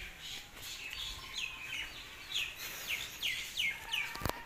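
A bird chirping: a run of short, falling, high-pitched chirps, about three a second, through the second half. One sharp click near the end.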